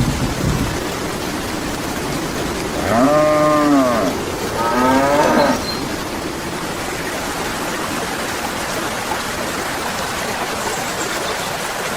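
Cow mooing twice, each call a little over a second long with a rising-then-falling pitch, over a steady rain-like hiss.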